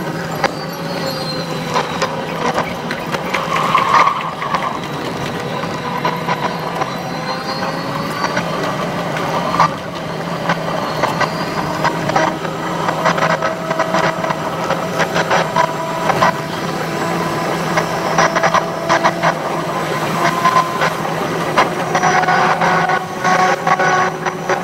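Keihan limited express train running, its sound sped up six times: a dense, rapid clatter from the wheels on the track over a steady hum, with motor whines that glide up and down in pitch.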